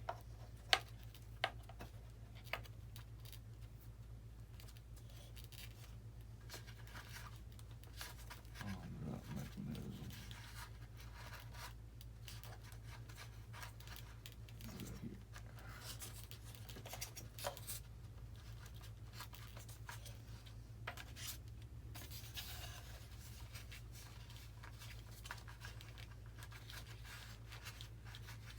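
Small clicks, scratches and rustles of hands working wire leads through the plastic parts of an RC model airplane, with a few sharp clicks near the start, over a steady low hum.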